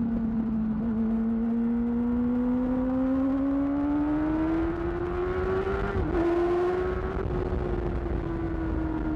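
2008 Yamaha R6's inline-four engine through a Termignoni exhaust, under way with its pitch slowly climbing as it accelerates. About six seconds in the note dips briefly, then the pitch slowly falls as the throttle eases off.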